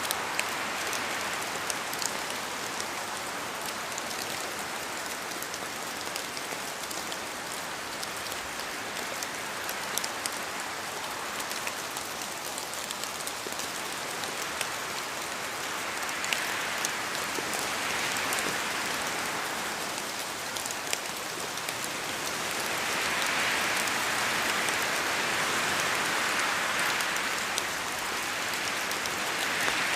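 Steady rain falling in a forest, with individual drops ticking. The rain and wind swell louder twice in the second half.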